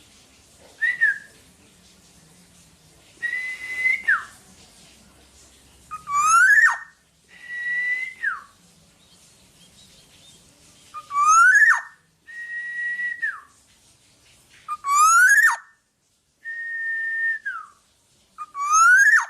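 Black-naped oriole (kepodang) singing loud, fluty whistles: a rising whistle, then a held note that drops away at the end, repeated over and over with short pauses between phrases.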